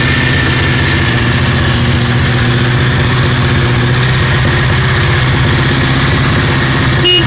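Vehicle engine idling steadily, with a short horn beep near the end.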